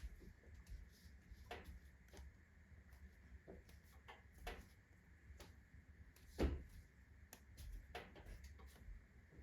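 Wood fire crackling in a wood-burning stove, a rotten log burning on hot embers: scattered faint ticks and pops at irregular intervals, with one louder pop about six and a half seconds in.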